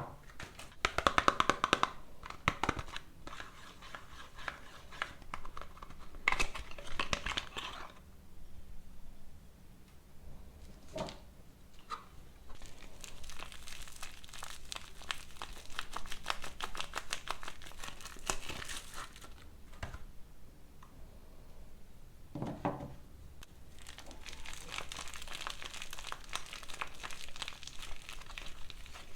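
Soap bars being unwrapped by hand: the packaging crinkles and tears in several bouts with short pauses between, and a few single sharp clicks fall in the pauses.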